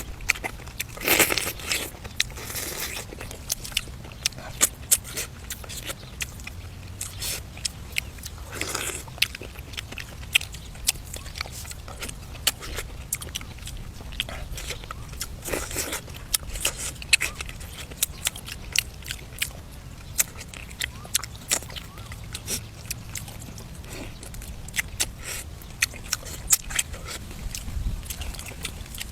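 A person eating braised duck and vegetables close to the microphone: biting and chewing, with crisp crunches and many quick wet mouth clicks at an irregular pace.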